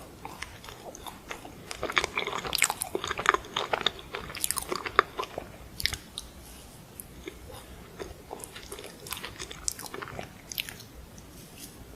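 Close-miked mouth sounds of a person biting into and chewing an ice cream sandwich: quick, wet, crunchy clicks that come thickest for a few seconds, then ease into lighter chewing.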